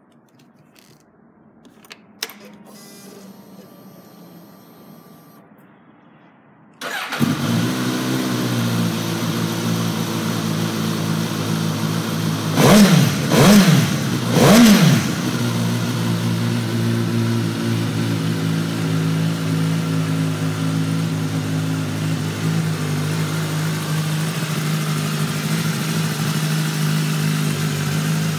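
Suzuki GSX-S1000 inline-four through a Yoshimura aftermarket exhaust: a click and a few seconds of faint whirring, then the engine starts abruptly about seven seconds in and settles to a steady idle. About halfway through, the throttle is blipped three times in quick succession before the engine returns to idle.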